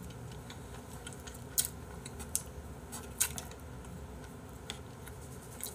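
Quiet close-up eating: a mouthful of soy-marinated squid stuffed with fish roe being chewed, with a few short, sharp clicks.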